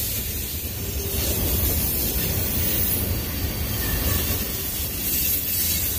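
Freight cars of a Union Pacific manifest train rolling past close by, tank cars among them: a steady rumble of steel wheels on rail with a high rushing noise over it.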